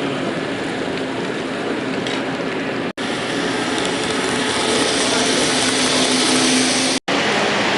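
Model trains running on a layout: a steady mechanical whir and rattle, broken twice by abrupt momentary dropouts.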